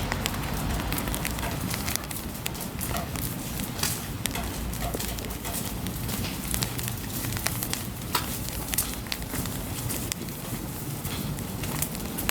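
Rain falling on a city street: a steady hiss with many irregular sharp taps of drops.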